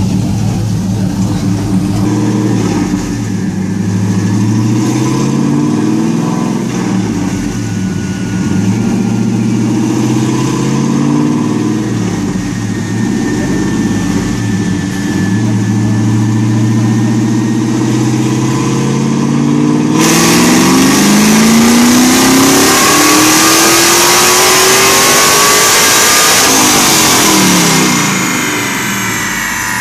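Fourth-generation Chevrolet Camaro SS V8 running on a chassis dynamometer. For about twenty seconds it runs at low, varying revs; then it is suddenly much louder, with the pitch climbing steadily for about seven seconds in a dyno pull. Near the end the throttle is lifted and the revs fall away.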